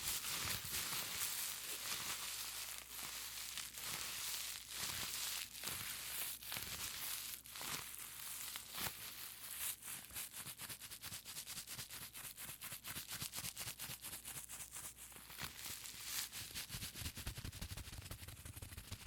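Bubble wrap being squeezed and crinkled in the hands, crackling with sharp clicks that become a dense, rapid run of small crackles about halfway through.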